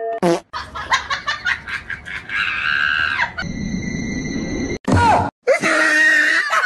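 Comedy sound effects laid over the clips: a short high scream, then a steady beep-like tone that cuts off sharply, then a rapid snickering laugh near the end.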